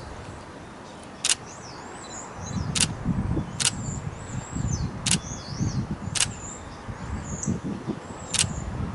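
Six single shutter clicks from a Canon 90D DSLR, spaced irregularly about one to two seconds apart, with small birds chirping in short whistled notes between them. A low rumbling noise joins about two and a half seconds in.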